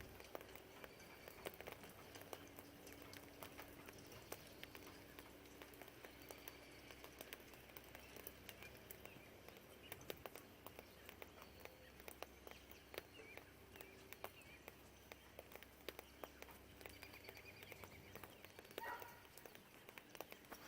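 Faint rain dripping and tapping irregularly, with faint birds chirping in the distance and the low hum of distant traffic. A short rising bird call comes near the end.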